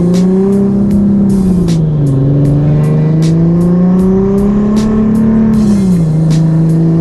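The single-turbo 3.7-litre V6 of a 370Z Nismo pulling hard through its open turn-down pipe with no exhaust. Revs climb, then drop sharply at upshifts about two and six seconds in, with a burst of hiss around each shift.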